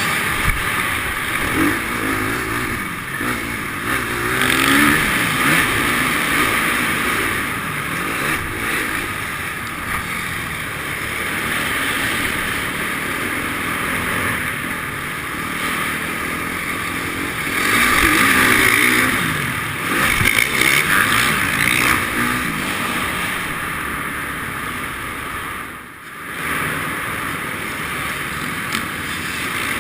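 Motocross bike engine revving up and down over and over as it rides, with rising and falling pitch. The sound drops briefly near the end as the throttle comes off.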